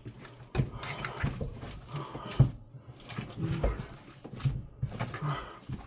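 Hands squishing and kneading a wet meatloaf mixture of ground beef, ground chicken, eggs and panko crumbs, giving irregular squelching sounds.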